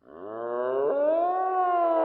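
An animal's long drawn-out call that rises in pitch over about the first second, then holds steady.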